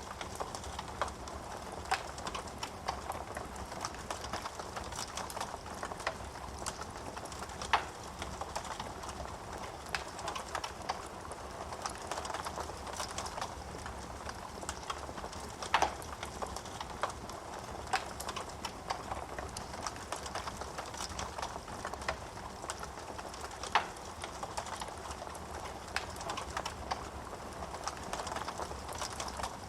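Wood fire burning in a fireplace: a steady soft hiss of flames with frequent small crackles and pops from the burning logs, and a few louder snaps.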